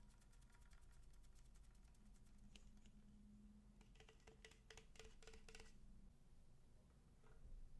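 Near silence with faint, quick trains of soft clicks and crackles: one at the start and another burst about four seconds in.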